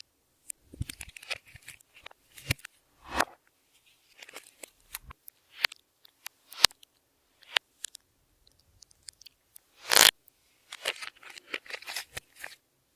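Clear slime being worked by hand with glitter and makeup mixed in, giving irregular sharp clicks and short crackles, the loudest just about ten seconds in.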